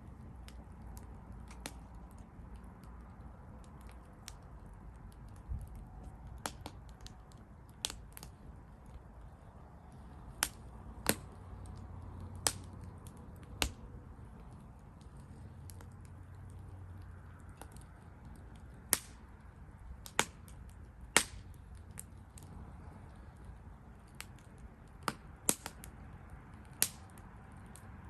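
Wood fire crackling: irregular sharp pops and snaps, about fifteen loud ones spread unevenly, over a low steady hiss of the burning.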